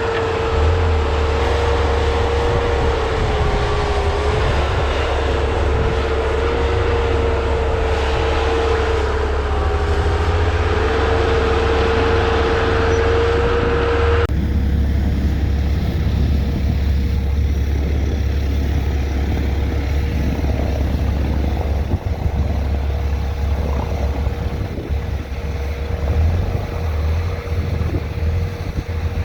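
A vehicle engine running steadily with a low rumble and a wavering whine while pulling a stuck machine out of snow. The sound changes abruptly about halfway through, and the whine fades.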